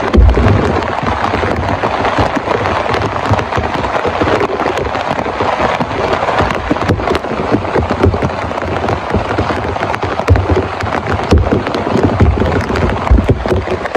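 Heavy rain beating on a tent: a dense, steady hiss packed with sharp drop impacts, with low thumps now and then.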